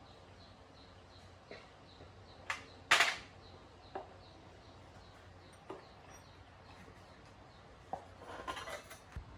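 Sharp metallic clinks and knocks of tools and small engine parts being handled, the loudest about three seconds in, with a short scraping rattle near the end. A faint high chirp repeats about three times a second behind them.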